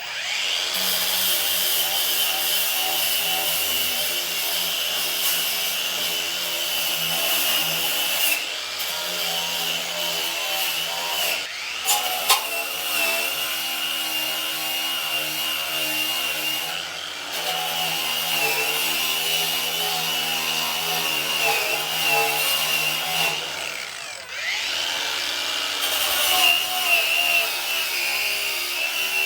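Handheld power tool running steadily under load, with a high whine, easing off briefly a few times.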